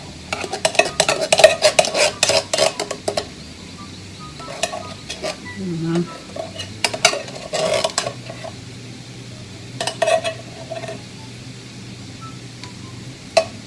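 Roast beef hash frying in a pan while a cooking utensil stirs it, scraping and knocking against the pan. There is a fast clatter for the first three seconds, then scattered knocks over a faint sizzle.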